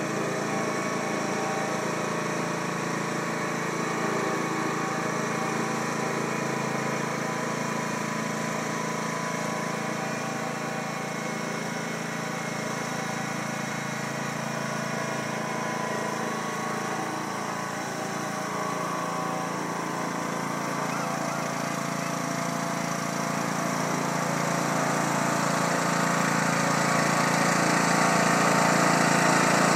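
Small tractor's engine running steadily, getting louder over the last several seconds.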